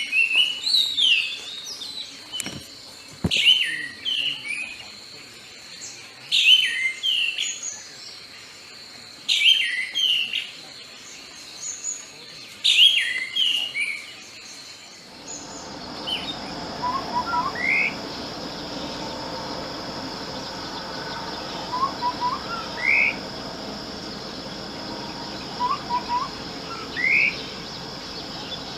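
Songbird singing a short, varied phrase repeated about every three seconds. About halfway through, the sound changes to a steady high hiss with a single bird giving a brief rising chirp every four or five seconds.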